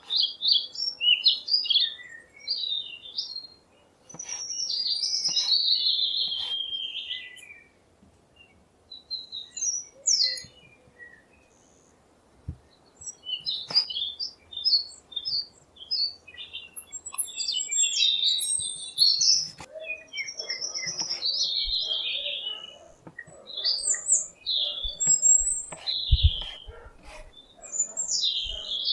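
Songbirds singing outdoors: repeated bursts of high chirping and warbling phrases with short pauses between them, and a few sharp clicks.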